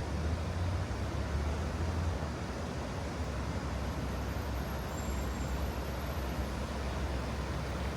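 Steady city traffic ambience: an even low rumble of road vehicles under a broad, unbroken rush of noise.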